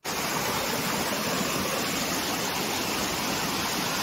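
Steady rush of flowing water from a monsoon-swollen stream or field channel.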